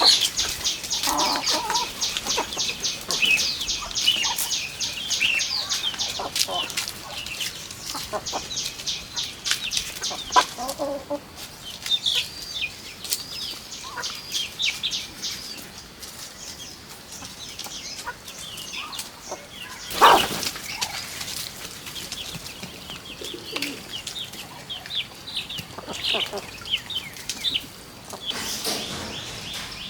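Chickens cheeping and clucking: a fast, steady run of high peeps, about four a second, for the first ten seconds, then scattered chirps. There is one sudden loud noise about twenty seconds in.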